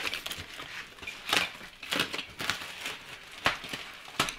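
Packaging rustling and crinkling, with several sharp clicks and knocks spread through, as the parts of a newly unpacked sofa are handled.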